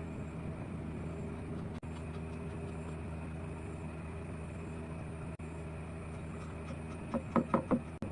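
A steady low mechanical hum, with a quick run of about five sharp knocks near the end.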